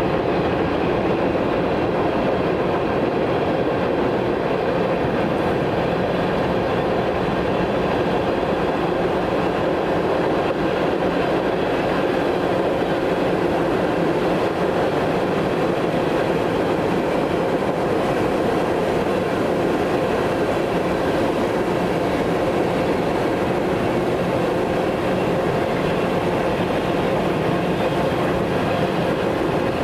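A train's cars rolling past on the rails at a steady speed: a continuous, even noise of wheels on track that holds the same level throughout.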